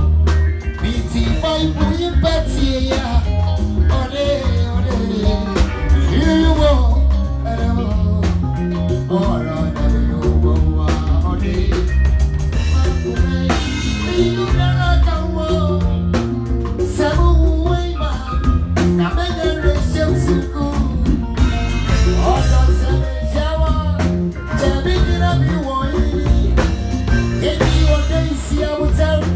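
A live band playing a song at a sound check: singing over drum kit and a heavy bass line.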